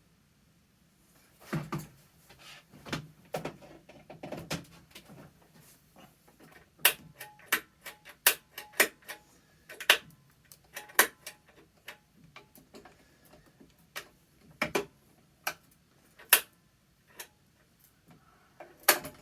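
Irregular sharp clicks and knocks from handling a vintage Eureka commercial upright vacuum cleaner that will not turn on; no motor runs.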